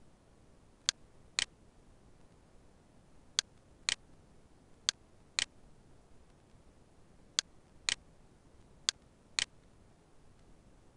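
Computer mouse clicks: ten sharp, short clicks in five pairs, each pair's clicks about half a second apart, over a faint steady hiss.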